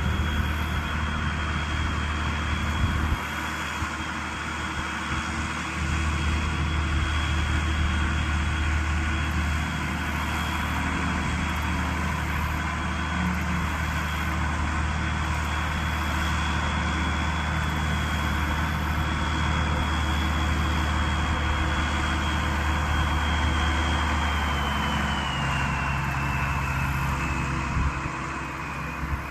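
Allis-Chalmers 190XT turbocharged six-cylinder diesel tractor engine running steadily under way. A thin high whine rides over it and falls in pitch near the end as the engine eases off.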